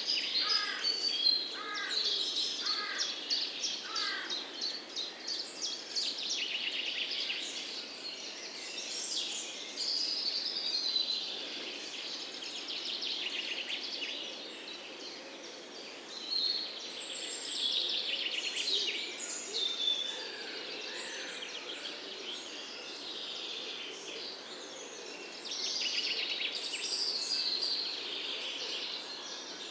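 Several songbirds singing and chirping at once, with quick trills and high chirps overlapping throughout. In the first few seconds a lower bird gives a series of short falling whistles, about one every half second to second.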